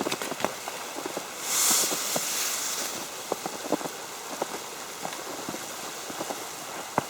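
Falling wet snow ticking irregularly on an umbrella over a steady hiss. A louder, brief hiss about a second and a half in.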